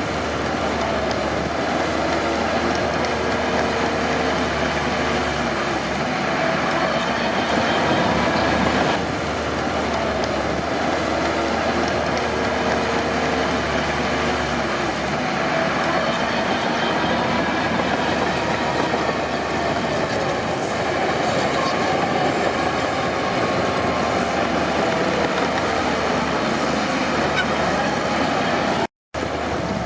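Crawler bulldozer working: its diesel engine and steel tracks run steadily, with a brief cut to silence near the end.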